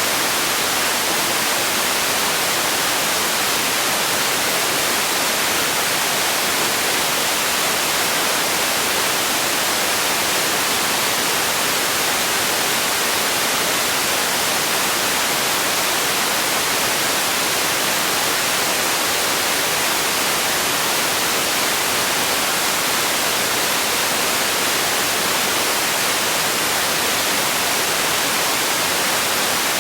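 Steady white noise for sleep: an even, unbroken hiss, strongest in the upper frequencies, with no change in level or character.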